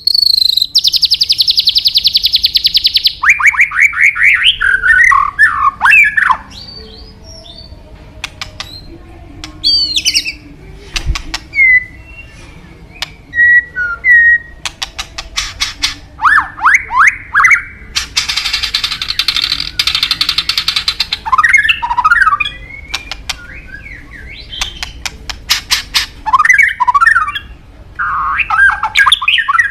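White-rumped shama (murai batu) singing a loud, varied song: whistled notes gliding up and down, quick clicking notes, and a long buzzy rattle near the start and again about two-thirds of the way through.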